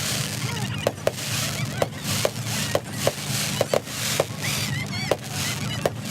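Fireworks going off: about a dozen sharp bangs at irregular intervals over continuous crackling, with a few short whistling glides in pitch.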